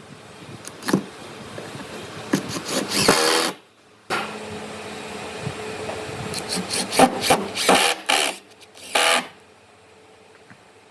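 A hand tool scraping and cutting wood in a string of short, rasping strokes, bunched in two clusters with an abrupt break just before the middle.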